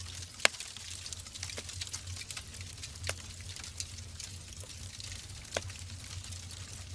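Wood fire in a fireplace crackling: irregular small crackles and a few louder pops, the loudest about half a second in and others near three and five and a half seconds, over a steady soft hiss and low rumble.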